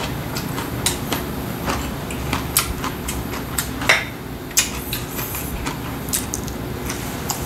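A person eating: chewing, with irregular short wet clicks and smacks of the mouth.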